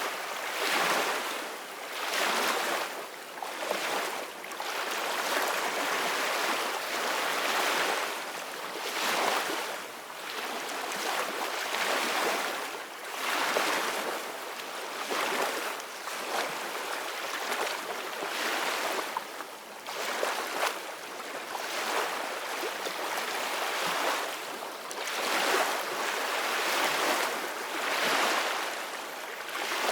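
Sea waves splashing and washing, surging and falling back every second or two in a steady hiss of water, with little deep rumble.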